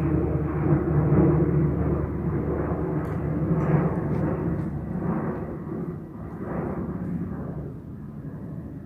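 Airliner taking off, its engine noise fading as it climbs away.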